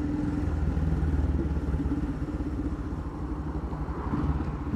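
Yamaha XT660R's single-cylinder engine running on its stock exhaust while riding, heard through a helmet-mounted microphone. It eases off about three seconds in and picks up again near the end.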